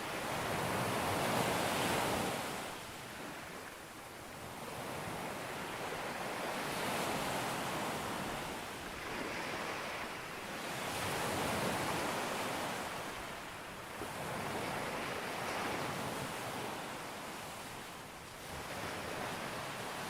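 Ocean waves breaking on a beach, a steady wash of surf that swells and falls back every few seconds.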